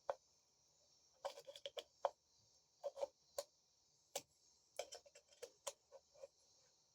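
Faint, irregular clicks and taps of small metal parts being handled and fitted together inside a Maytag wringer washer head gearbox (gears, spring-loaded cups, shims and shift forks), some in quick clusters, over a steady high hiss.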